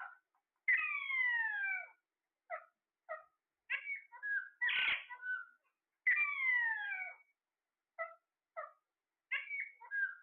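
Pet parrot calling: two long falling whistle-like calls, about a second long each, with short chirps and squawks between them.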